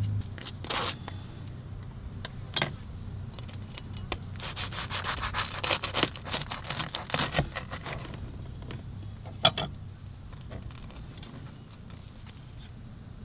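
A quick run of rubbing and scraping strokes, thickest about four to seven seconds in, with a few sharp clicks.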